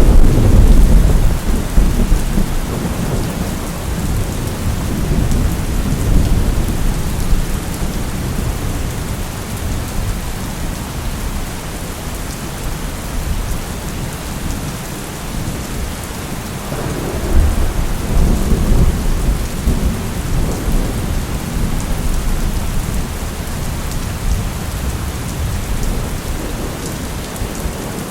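Steady rain hissing, with thunder: a loud low rumble right at the start that rolls on and fades over several seconds, and a second, weaker rumble about 17 seconds in.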